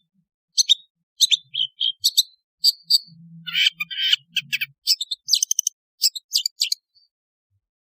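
Long-tailed shrike (cendet) calling: a quick series of short, sharp chattering notes and brief whistles, coming in clusters that grow busier about halfway through.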